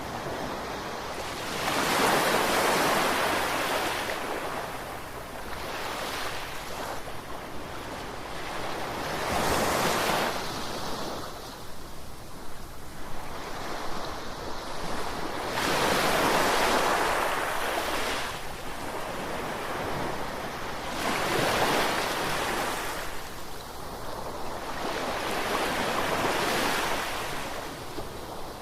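Gentle ocean waves breaking and washing up the shore, swelling and fading in about five surges, one every five to seven seconds.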